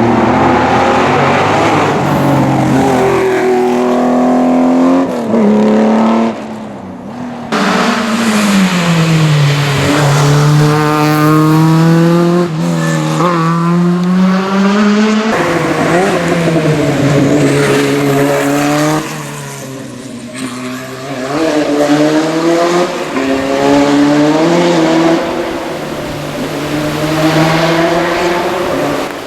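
Historic rally cars driven hard: engines revving up through the gears, the pitch climbing and dropping at each shift, in several short passes.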